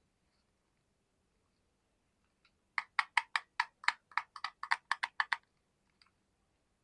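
A fidget toy being clicked: a quick run of about fourteen sharp clicks, some five a second, lasting about two and a half seconds.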